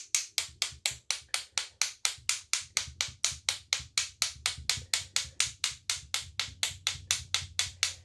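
A loaded paintbrush tapped in a fast, even rhythm, about five sharp taps a second, to flick spatters of paint onto the painting as falling snow.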